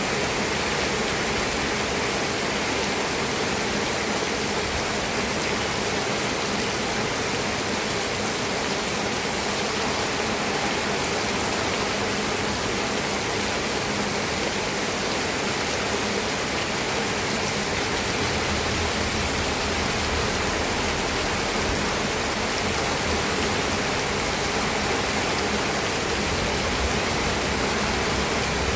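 Steady rain, an even dense hiss of falling rain with no separate drops or events standing out.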